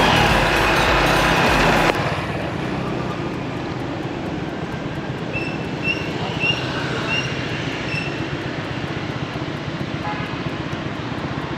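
Background music that cuts off about two seconds in. Then steady wind and traffic noise from riding a motorbike through city streets, with a run of four or five short high beeps around the middle.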